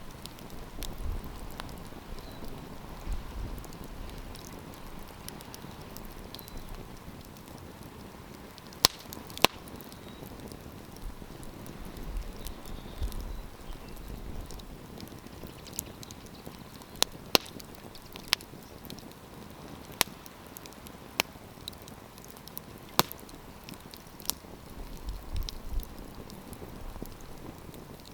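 Wood campfire crackling steadily, with about ten sharp, loud pops scattered through the second half, and a few low rumbling swells now and then.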